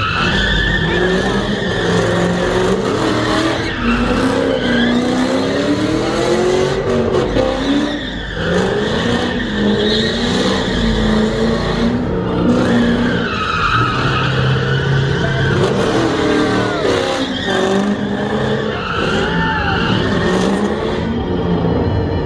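Car tires squealing and skidding for a long stretch while the engine revs up and down over and over.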